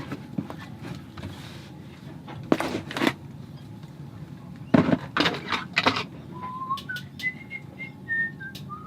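A few sharp knocks and clatters, as of tools being handled, then in the last few seconds a person whistles a short tune of separate notes that climb in pitch and dip slightly at the end.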